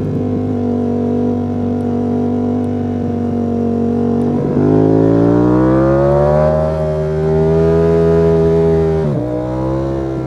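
Ducati Panigale V4 S's V4 engine running at steady revs, then about halfway through the revs drop briefly and climb under throttle to a higher pitch, holding there before a sharp dip and recovery near the end.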